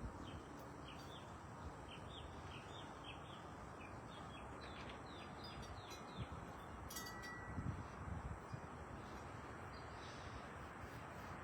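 Birds chirping in a quick series of short falling notes over a steady outdoor background hiss, with a brief clink a little after halfway.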